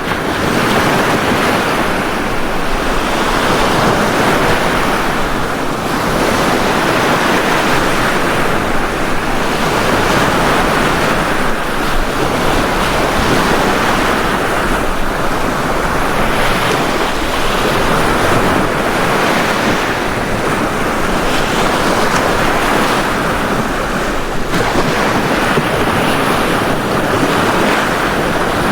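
Ocean waves breaking and washing on a beach in a continuous rushing surf, swelling and easing every few seconds.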